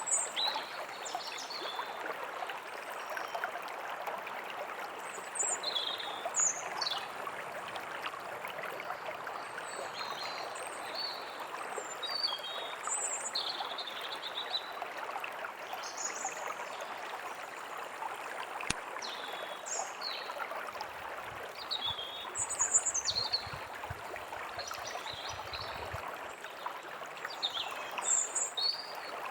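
A steady stream running, with small birds chirping in short calls now and then above it.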